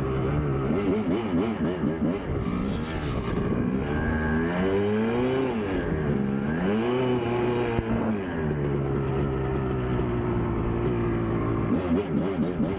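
1999 Kawasaki KX250 two-stroke dirt bike engine revving up and down several times, then holding a steady pitch for a few seconds before changing again near the end.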